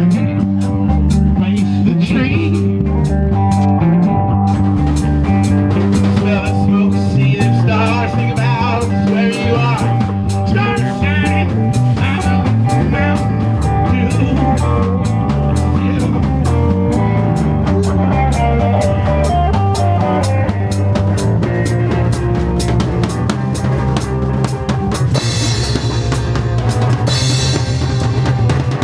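Live band playing an instrumental passage: a drum kit keeps a steady beat of kick, snare and rimshots under bass and guitar lines, with the cymbals growing louder near the end.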